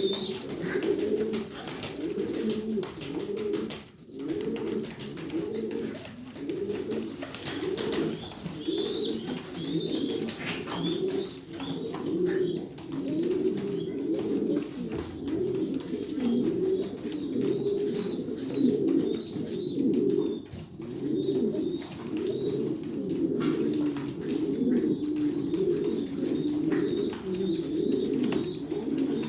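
Several Shami baladi pigeons cooing continuously in overlapping calls, with faint, short, high chirps coming in clusters now and then.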